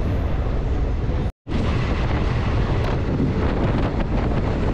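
Moving local passenger train heard from its open doorway: wind buffeting the microphone over the steady rumble of the coaches on the track. The sound drops out briefly about a second and a half in, then resumes.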